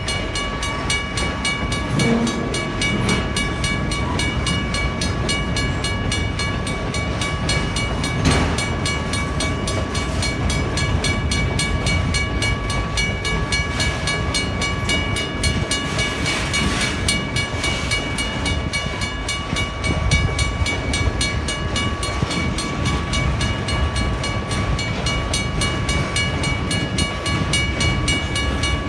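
WRRS mechanical railway crossing bell ringing steadily with rapid strokes while a train passes through the crossing, its wheels on the rails making a continuous low noise underneath.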